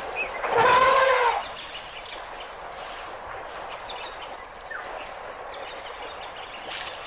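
A single loud animal call, a pitched cry that rises and falls over just under a second, about half a second in, followed by steady background hiss.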